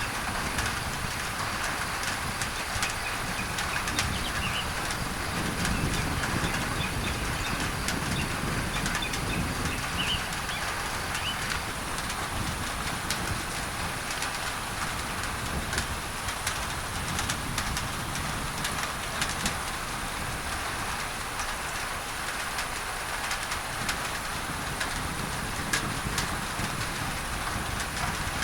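Rain falling on a tin roof, heard as a steady hiss with scattered sharp drop ticks, blended with steady pink masking noise. A few brief bird chirps come through in the first third, over low rumbles of distant thunder.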